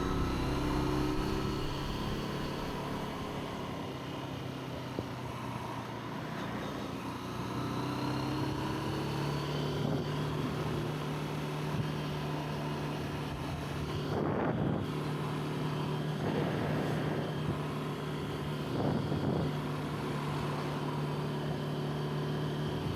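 Zontes 125 motorcycle engine running on the move, a steady drone with a few brief swells, heard through the camera's own built-in microphone.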